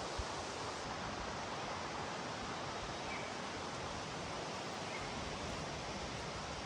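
Steady, even outdoor ambient hiss with no distinct events.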